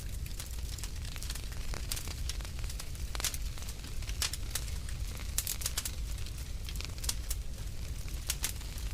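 Wood fire burning in a fireplace: a steady low rumble of the flames with irregular sharp crackles and pops from the burning logs, several close together around three seconds in and again past five seconds.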